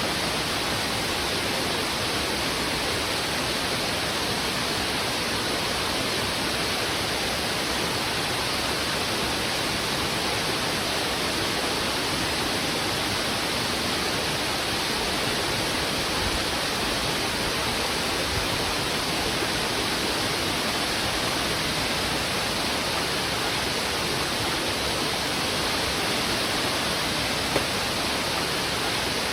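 Heavy river water rushing over rocks: a steady, unbroken hiss, with one brief tick near the end.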